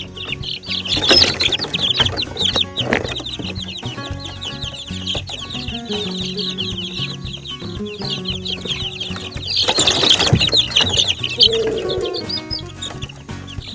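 Chickens calling: many short, high, falling peeps in quick succession, over background music with steady low notes. A louder rustling noise comes about ten seconds in.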